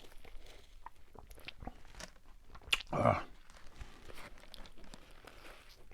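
Close-miked chewing and crunching of food with small wet mouth clicks. There is a sharp click and then a louder short sound about three seconds in.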